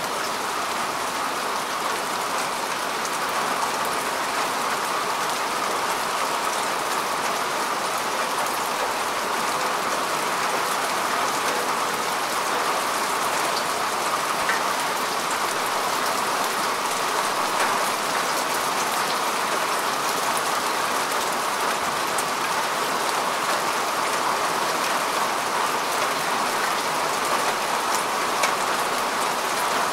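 Steady rain falling on grass and earth, an even hiss with scattered individual drop ticks.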